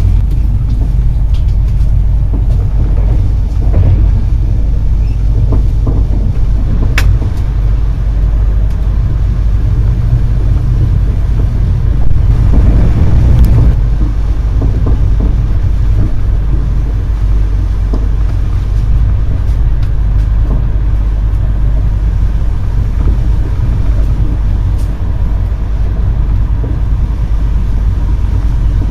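Intercity passenger coach running along the line: a steady low rumble of wheels on rails, with scattered clicks and a louder stretch about twelve seconds in.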